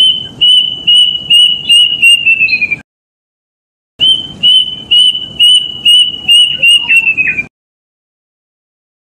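Kedasih cuckoo singing: two phrases, each a run of about eight clear whistled notes that slide slightly lower and speed up toward the end, with a short silent gap between them.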